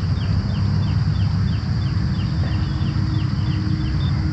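A bird calling a steady series of short, high, downward-sliding notes, about three a second, over a loud steady low rumble.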